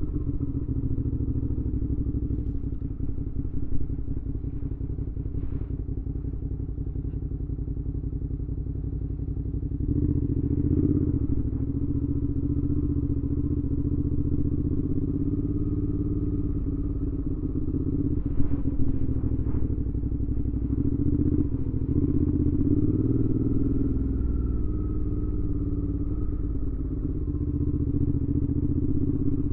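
2019 Suzuki V-Strom 650's 645 cc V-twin running under way through a Delkevic aftermarket exhaust with a carbon-fibre tip. It grows louder about ten seconds in as the throttle opens, and there are a few brief knocks along the way.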